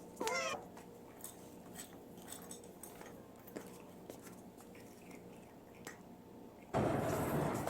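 A cat gives a short meow, then faint, scattered crunching of a cat chewing food. Near the end a sudden loud rush of noise sets in.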